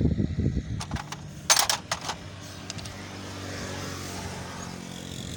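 Small motorcycle engine running steadily, after a few sharp metallic clicks in the first two seconds.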